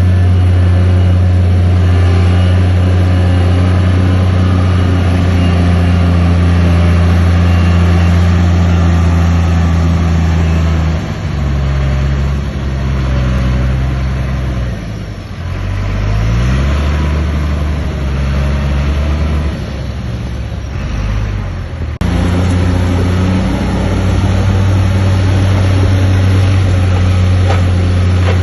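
Heavy bulldozer diesel engine running steadily with a low hum. Partway through the note drops and wavers, with a short rise in engine pitch as it revs, before a sudden switch back to the steady running sound.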